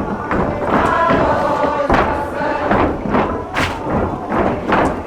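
Wooden geta clogs stamping in rhythm on the wooden floor of a shrine's worship hall, a sharp knock about every half second. A crowd of dancers sings and chants the dance song along with them, loudest about a second in.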